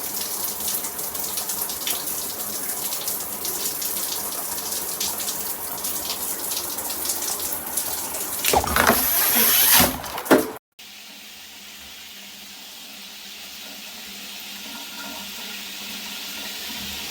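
Shower head spraying water, a dense steady hiss of falling spray. About eight and a half seconds in it grows louder with heavier splashing, then cuts off abruptly and gives way to a softer, steady spray that slowly gets louder.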